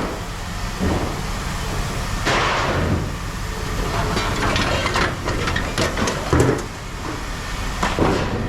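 Pieces of scrap metal clanking and clattering as they are handled and dropped, several irregular knocks over a steady low machine hum.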